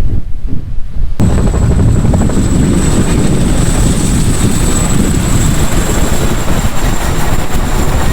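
Firefighting helicopter running loud, with a steady high turbine whine over dense rotor and engine noise. For about the first second there is only wind buffeting the microphone; then the helicopter sound comes in abruptly.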